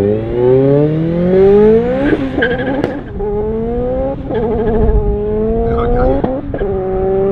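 A Honda EF Civic hatchback's four-cylinder engine revving hard under full acceleration, its pitch climbing through each gear and dropping at about four quick upshifts before settling into a steady run near the end.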